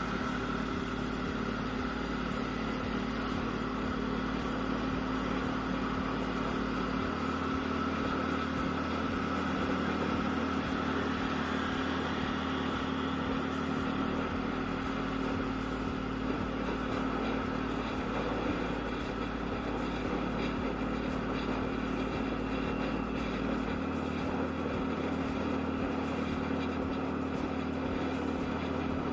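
Motorcycle engine running steadily at a constant speed while riding, with road and wind noise.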